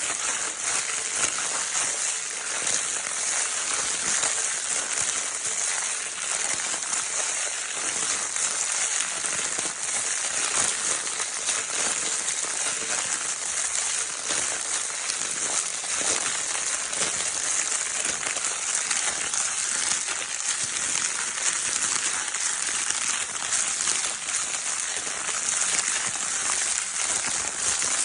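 Crinkle-paper baby toy being crinkled continuously: a dense, steady crackling rustle, mostly high-pitched.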